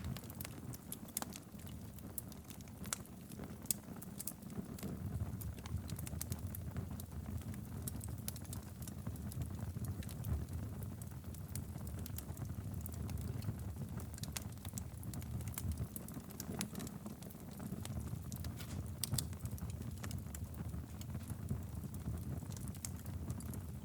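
Wood fire burning in a fireplace: a low steady rumble of flames with frequent irregular crackles and pops.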